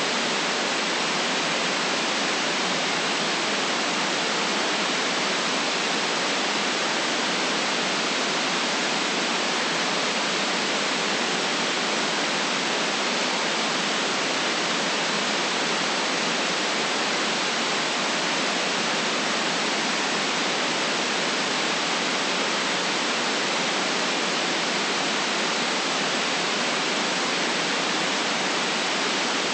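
Steady white noise: an even, unchanging hiss with no deep rumble in it.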